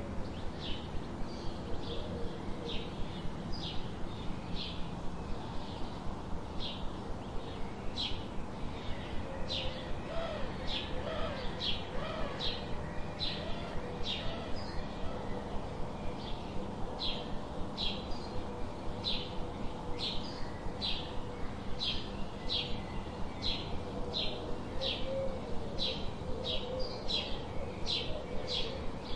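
Birdsong: one bird gives short high chirps repeated steadily, roughly two a second, over fainter, lower wavering bird calls.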